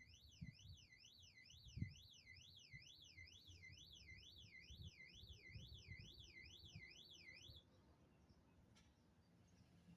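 Electronic alarm with a tone sweeping steadily up and down, about two sweeps a second, that cuts off about three-quarters of the way through, over a few low knocks.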